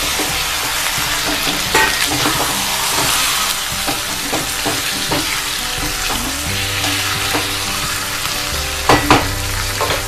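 Raw chicken pieces sizzling in hot mustard oil with fried sliced onions in a metal kadai, stirred with a spatula that knocks and scrapes against the pan, with sharper clacks about two seconds in and near the end.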